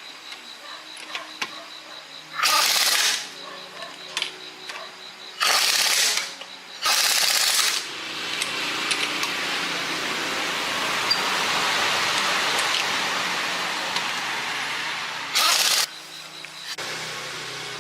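Compressed air hissing from an air hose in several short blasts, about a second each, and one longer hiss that swells and fades in the middle.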